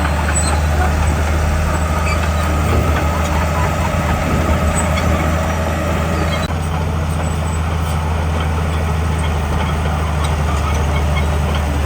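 Heavy diesel engine of earthmoving machinery running steadily, a deep even drone with no pauses; the higher-pitched mechanical noise changes a little past halfway.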